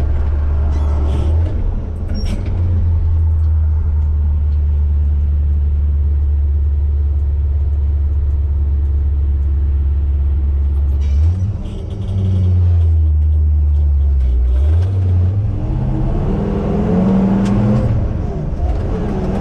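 Vehicle engine running with a steady low drone. Its pitch shifts about halfway through and again a few seconds later.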